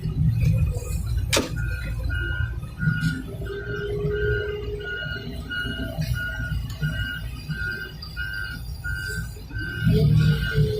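Reversing alarm on heavy machinery, beeping steadily about twice a second from about two seconds in, over a low engine rumble.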